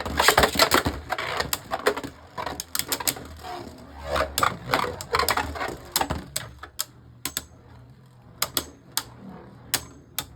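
Harmony Pegasus and Dusk Balkesh Beyblade Burst tops spinning and clashing in a plastic stadium: rapid dense clacking in the first few seconds, thinning to scattered single clicks later on.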